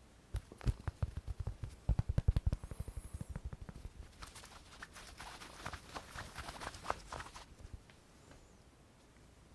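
Close-miked hand sounds: quick, dull finger tapping that speeds into a rapid patter about two seconds in, then a few seconds of crackly hand rubbing with small clicks.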